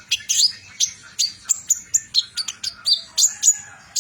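Kolibri ninja sunbird singing a fast, fierce 'trotol' song: a rapid, unbroken run of short, sharp, high chirps, about five a second, many of them sweeping down in pitch.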